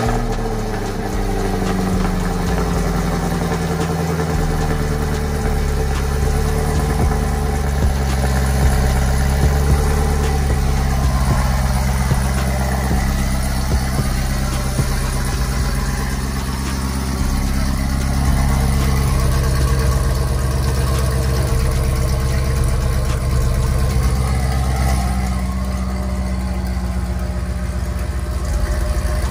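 2018 Chevrolet Camaro ZL1's supercharged 6.2-litre LT4 V8 idling through its quad exhaust, settling from the start-up flare into a steady idle within the first few seconds.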